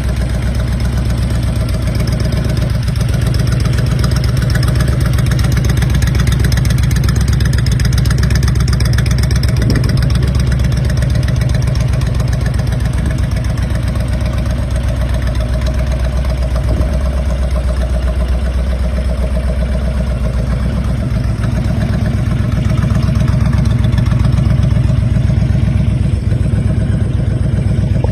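Honda Fury's V-twin engine idling steadily, a low even running sound.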